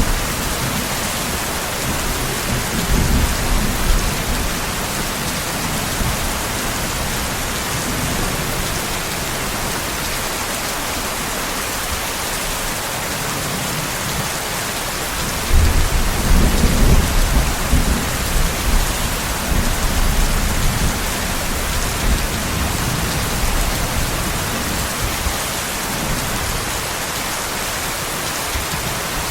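Steady heavy rain with rolling thunder. A weak rumble comes a few seconds in; a louder one breaks in suddenly about halfway through and rolls on for several seconds before fading back under the rain.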